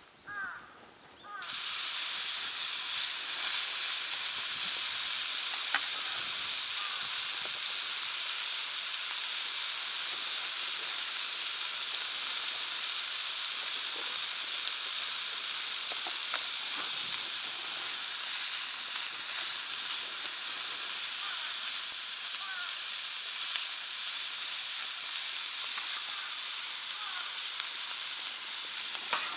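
Meat sizzling on a hot cast-iron Genghis Khan (jingisukan) grill pan heated over a wood fire. The sizzle starts suddenly about a second and a half in, then carries on at an even level.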